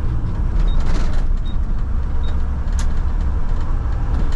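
Mack front-load garbage truck running, a steady low diesel rumble heard from inside the cab. Short high beeps repeat about every 0.8 s for the first couple of seconds.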